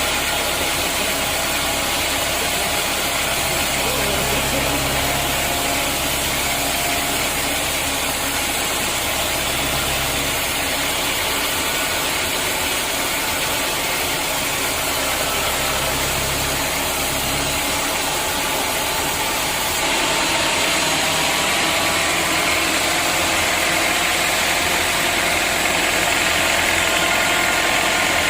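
Sawmill machinery running steadily: an engine-driven saw's continuous hiss over a low engine hum. The sound shifts and gets slightly louder about two-thirds of the way through.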